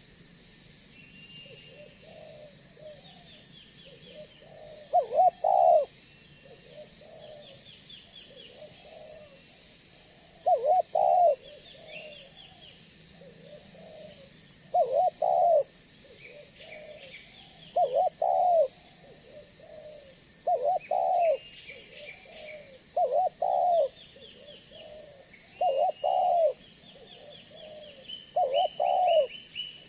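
Spotted dove (tekukur) cooing its song over and over, a loud coo phrase every few seconds from about five seconds in, with softer coos between. Small birds chirp higher up, over a steady high hiss.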